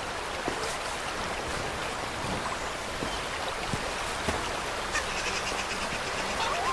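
Steady rushing of a flowing stream, with scattered soft knocks and snaps over it.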